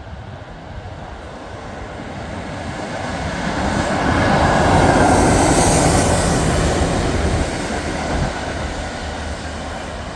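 Diesel-hauled railhead treatment train with GB Railfreight Class 66 locomotives passing through. The sound swells to a peak about five seconds in, then fades.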